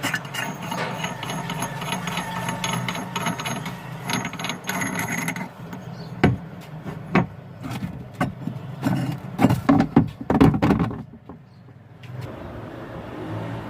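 Sharp metal knocks and clinks of hand tools working on an old washing machine's pulley and rotor assembly, coming in a cluster in the second half. Before them a steady mechanical hum with rattling.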